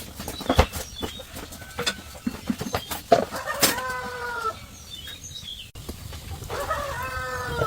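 Chicken calling: two drawn-out, slightly falling calls about three seconds apart, among scattered light knocks and clicks.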